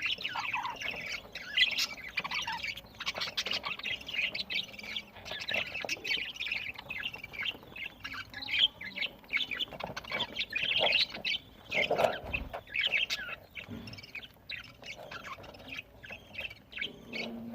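A group of budgies chattering, with many short overlapping chirps and squawks and no pause.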